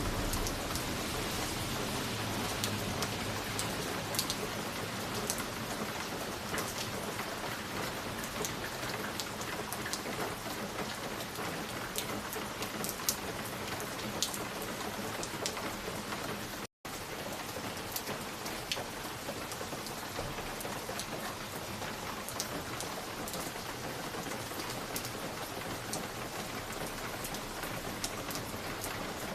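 Wood fire crackling in a fireplace: a steady hiss with scattered sharp pops and snaps. The sound cuts out for an instant a little past the middle.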